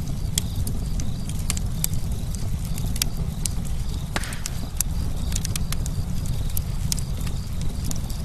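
Campfire burning, with a steady low rumble of flames and irregular sharp crackles and pops from the burning wood, one louder snap about four seconds in.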